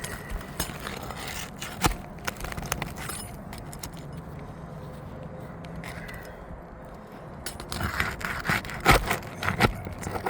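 Metal hand tools clicking and scraping against asphalt shingles as they are worked loose, with scattered sharp clicks at first and a dense run of knocks and scrapes near the end.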